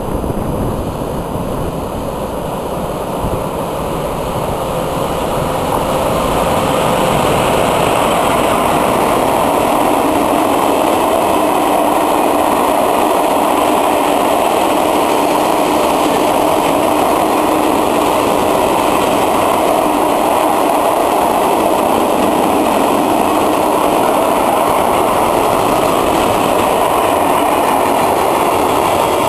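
A freight train of flat wagons rolling past, a steady rumble of wheels on rail that builds over the first several seconds and then holds.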